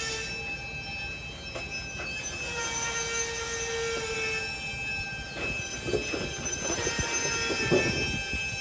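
Slow-moving freight train of gondola cars rolling past, its wheels squealing on the rail in several steady high tones. From about halfway through come a run of sharp metallic knocks and squeals from the cars.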